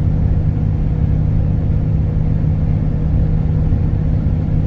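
Steady low drone of a Kenworth T360 concrete agitator truck cruising on the highway, heard from inside the cab: the engine running at a constant speed under the hum of the road.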